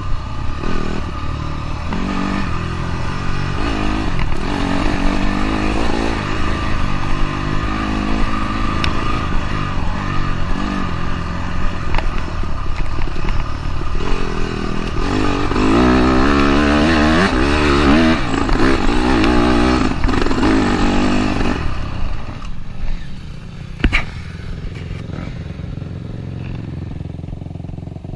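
Dirt bike engine revving up and down as it is ridden, loudest about two-thirds of the way through, then easing off to a lower steady drone near the end, with one sharp knock shortly before.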